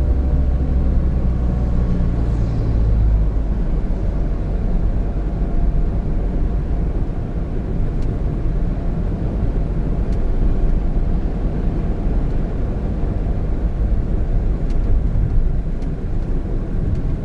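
Small 660cc turbo kei car driving, heard from the cabin: a 2017 Honda N-BOX Custom's engine and tyre/road noise as a steady low rumble. A low engine hum is plain for the first few seconds, then blends into even road noise.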